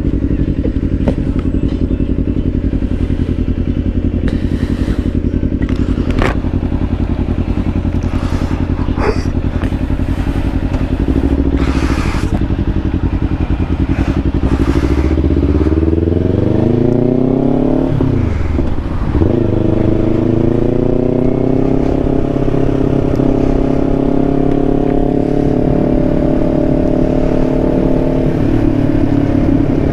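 Kawasaki Ninja 500's parallel-twin engine running at a steady pace, then accelerating with a rising pitch about halfway through. The pitch drops briefly as it shifts up, then rises again before settling at a steady cruise.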